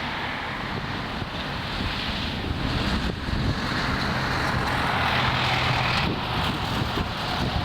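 Jet engines of a landing airliner growing louder to a peak about five seconds in, then easing, mixed with strong wind buffeting the microphone.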